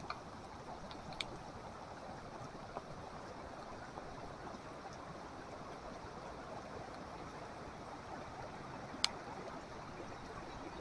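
Rain-swollen creek in flash flood, rushing water making a steady even noise, with a few brief sharp clicks, the clearest about nine seconds in.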